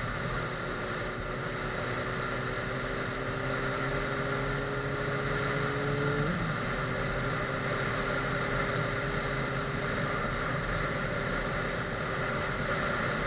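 Suzuki GSF 600 Bandit S motorcycle's inline-four engine pulling in gear, its pitch rising slowly, then dropping sharply about six seconds in at an upshift and running on steadily, over a steady rush of wind and road noise.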